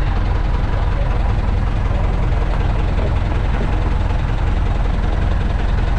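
Steady, loud, low rumble of a motor vehicle's engine running.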